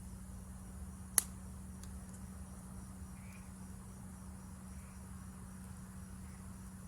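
Forest insects chirping steadily in a high pitch, with a campfire crackling: one sharp pop from the burning wood a little over a second in, and a few faint ticks.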